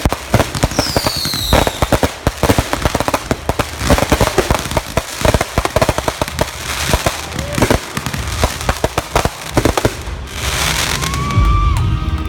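Consumer fireworks finale: a dense barrage of bangs and crackling, with a falling whistle about a second in. Near the end the bangs stop and people start cheering and whooping.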